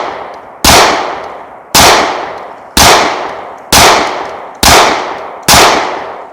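Taurus PT-111 G2 9mm pistol firing at a steady pace of about one shot a second, six shots in all, each crack followed by a fading echo.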